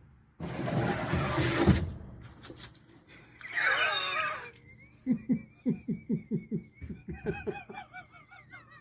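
A person laughing hard in quick repeated bursts, about three a second, through the second half. Before that come a short burst of noise and a brief voiced cry.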